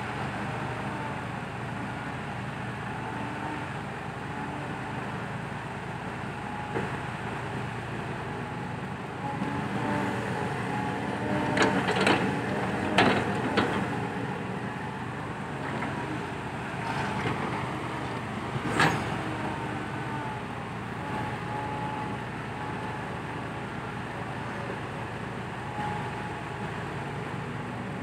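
Heavy diesel machinery, dump trucks and an excavator, running steadily, with a cluster of sharp knocks about halfway through and another about two-thirds of the way in.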